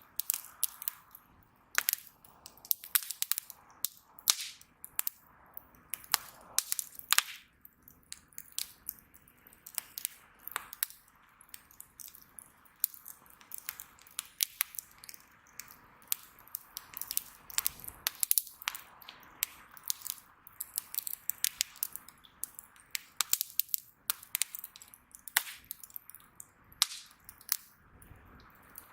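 Wood bonfire crackling: irregular sharp pops and snaps from the burning wood, several a second, over a faint hiss of the flames.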